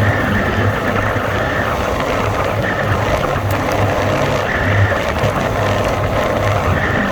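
Honda Rubicon 520 ATV's single-cylinder engine running steadily while the quad is ridden along, with a pulsing low note.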